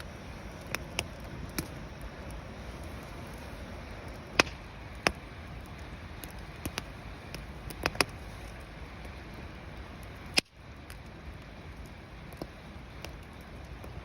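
Wood bonfire crackling: sharp, irregular pops and snaps over a steady background rush.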